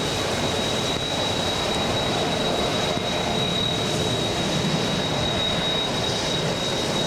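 Boeing 767's General Electric CF6 turbofan engines at low taxi power close by: a steady rush of engine noise with a high, steady whine held above it.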